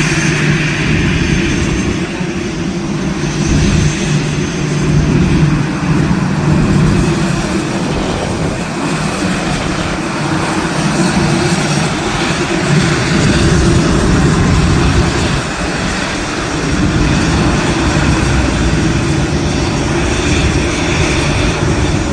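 Airplane engines running with a heavy, deep low sound, steady and continuous with slight swells in loudness.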